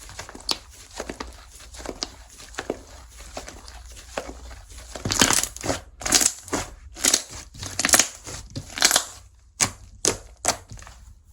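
Slime being pressed, stretched and poked by hand. First comes a run of small crackles, then from about five seconds in louder sticky pops come roughly one to two a second, with a few sharp clicks near the end.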